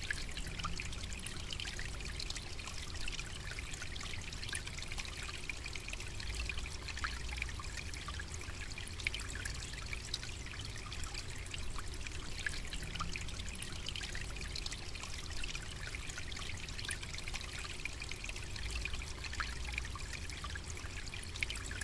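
Steady trickling, babbling water, a dense patter of tiny splashes over a low, even rumble.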